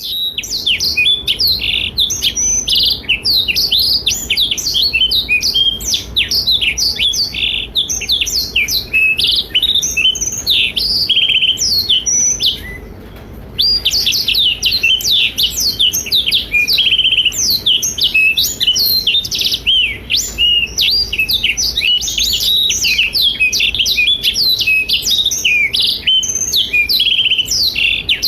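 Blackthroat (black-throated canary) singing a fast, unbroken twittering song of high chirps and trills, with one short pause about twelve seconds in.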